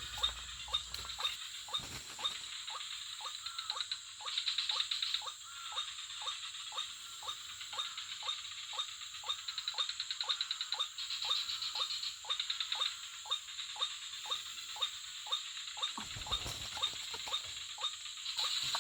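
White-breasted waterhen calls, a recorded lure played through a phone's small speaker: a monotonous, even series of short falling croaks, about two or three a second. A steady high tone runs behind them.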